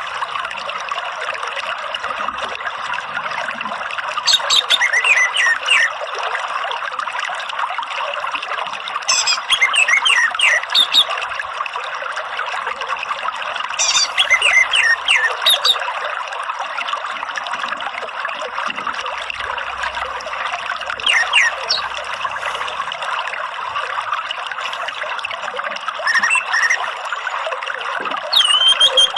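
Steady running water, like a trickling stream, with short bursts of quick, high orange-headed thrush song every few seconds.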